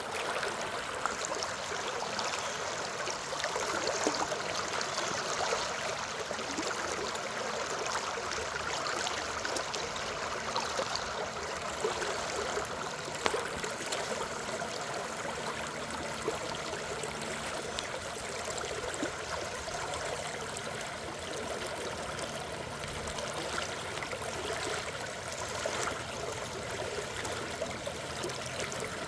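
Water flowing and splashing steadily in a stream, a continuous rushing with small splashes and gurgles.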